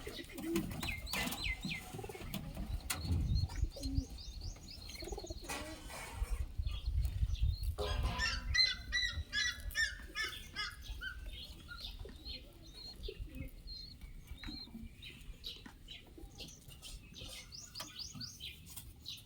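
Pigeons flapping their wings, with short high bird chirps throughout and a dense run of chirping about eight seconds in.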